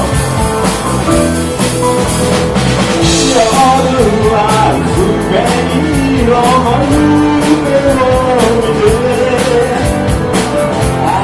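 Live rock band playing a song: a singer's voice over electric guitar, bass and a drum kit keeping a steady beat.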